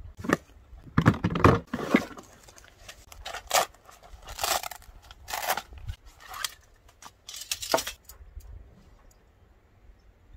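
Rustling and crinkling of material being handled, in a run of short bursts about once a second, the loudest about a second in, stopping about eight seconds in.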